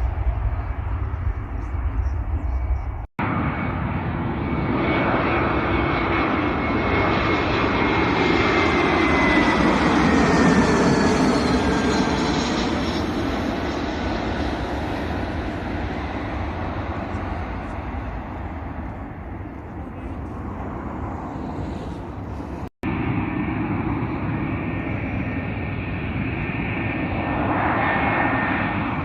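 Airliner engines going by near a runway: a loud, steady engine noise with a high whine that falls slowly in pitch as the aircraft passes, loudest about a third of the way in. The sound cuts out for an instant twice.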